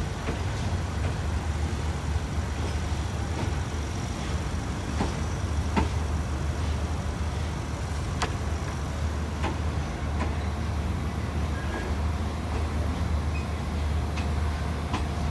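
Passenger train moving slowly, heard from inside the carriage: a steady low rumble with a few scattered sharp clicks from the wheels and carriage.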